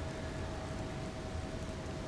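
Steady heavy rain ambience: an even hiss of rain with a low rumble underneath and a faint steady hum.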